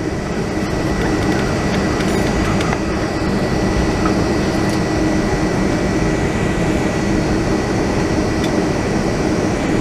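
Steady cabin noise inside a Boeing 757-200 taxiing after landing: the engines at idle and the air conditioning give a continuous rumble and hiss with a faint high whine.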